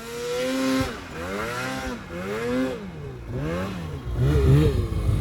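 Snowmobile engine revved up and down in about four throttle blips, as the stuck sled tries to power its way out of deep snow. About four seconds in, it settles into a louder, lower, uneven rumble.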